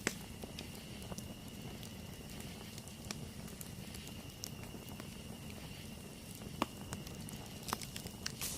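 Campfire burning: scattered sharp crackles and pops over a low, steady rumble of flame, with a louder pop about two-thirds of the way through. A thin, steady high tone runs behind it.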